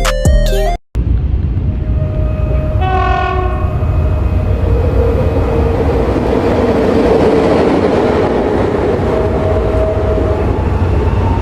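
Music cuts off within the first second, then a train runs with a steady rumble and clatter; its horn sounds briefly about three seconds in.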